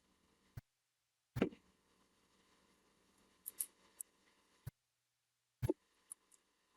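A handful of short, light clicks and taps from small objects being handled, about seven in all with near-silent gaps between them; the loudest comes about a second and a half in.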